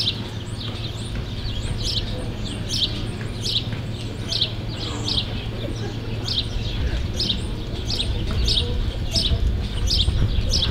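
A small bird chirping over and over, short high falling chirps about one and a half a second, over a steady low rumble of arena noise.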